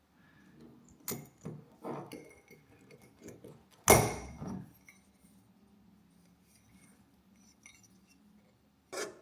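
Glassware clinking as it is handled: a few light knocks, then one sharp clink about four seconds in that rings briefly, and another knock near the end.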